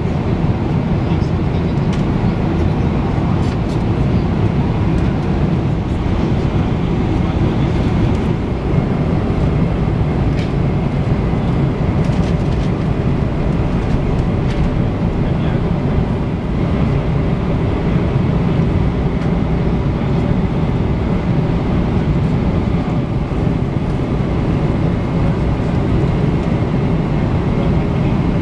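Steady cabin noise of a Boeing 777-300ER in flight: engine and airflow noise with no change in pitch or level.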